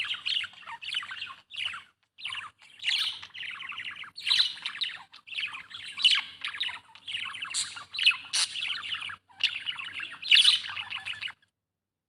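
Budgerigar chattering and warbling in rapid, dense runs of chirps and squawks broken by short pauses. It stops abruptly near the end.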